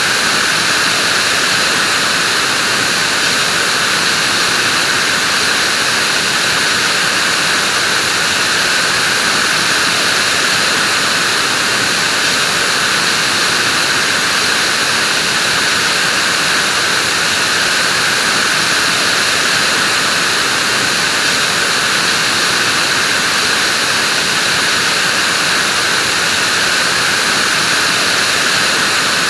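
Vacuum cleaner motor running steadily, a constant whooshing hiss with a high whine, unchanging throughout.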